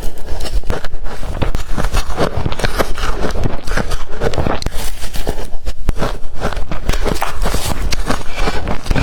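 Close-up crunching of blender-crushed ice being bitten and chewed, a dense crackle with no pause.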